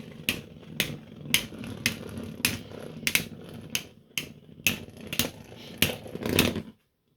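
3D-printed Beyblade tops spinning in a plastic stadium, with a steady whirring scrape and sharp clacks of the tops striking each other about twice a second. The sound cuts off suddenly near the end.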